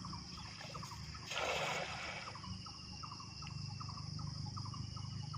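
Outdoor chorus of insects, a steady high trill, with short clicking calls repeating in quick groups. About a second and a half in, a brief rush of noise stands out over the chorus.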